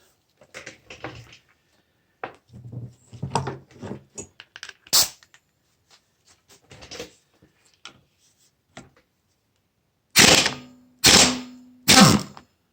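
Small clicks and knocks of tools on metal parts, then near the end three short, loud bursts about a second apart, typical of a power impact tool spinning out a bolt.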